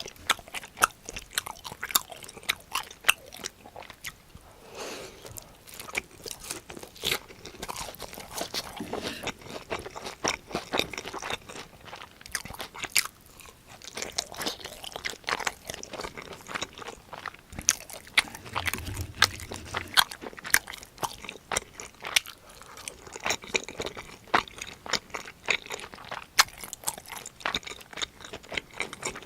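Close-miked eating: repeated crisp crunching bites and chewing, most likely of the breaded crust of a fried cheese pork cutlet. A brief low thump about nineteen seconds in.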